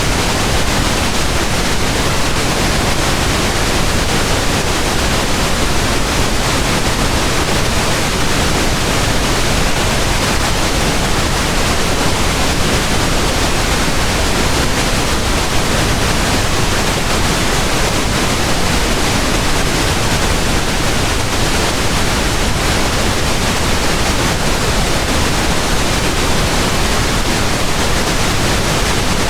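Pink noise: a steady, even hiss spread across the whole range from deep rumble to high hiss, unchanging throughout.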